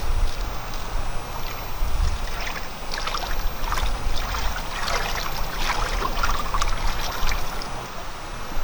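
Water trickling and splashing, busiest in the middle, over a steady low rumble.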